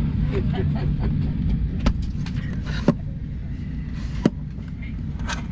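Airliner cabin on the ground during boarding: a steady low rumble of the air-conditioning and ventilation, broken by a few sharp clicks and knocks, three of them loudest, about a second apart.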